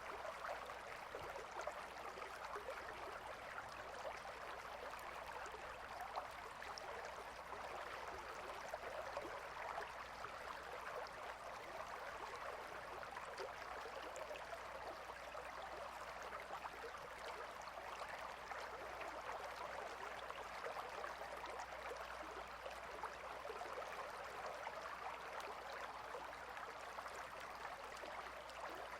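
Small river or stream flowing gently, a steady, fine-textured babbling of water.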